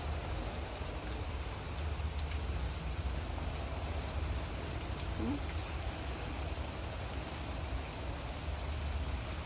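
Heavy rain falling steadily in a storm, with scattered drops ticking and a low rumble of strong wind on the microphone.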